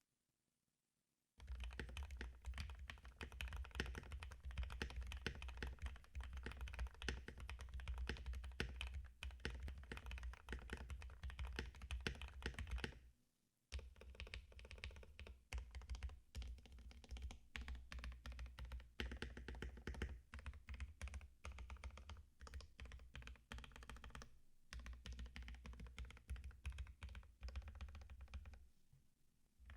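Typing on a Vissles V84 75% mechanical keyboard: fast, continuous keystrokes that start about a second and a half in, break off briefly around the middle, then carry on with one more short pause.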